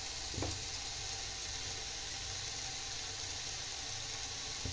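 Vegetables and moong dal sizzling in a pot on a gas stove: a steady, even hiss.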